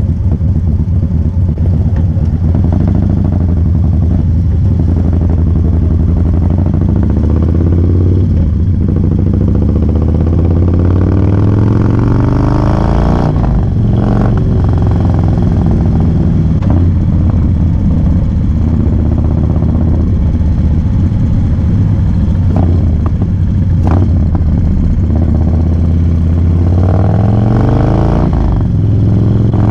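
A 2017 Harley-Davidson Low Rider S's Screamin' Eagle Twin Cam 110 V-twin running under way. The exhaust note rises in pitch as it accelerates about ten seconds in and again near the end, with a few brief dips in between.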